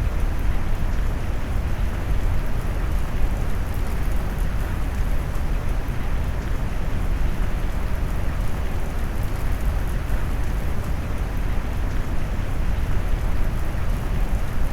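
Steady rain noise blended with deep brown noise: an even, unbroken hiss of rain over a heavy low rumble, with faint fine raindrop patter on top.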